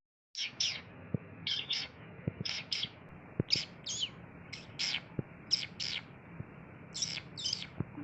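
A small bird chirping: short high calls in pairs, repeated about once a second.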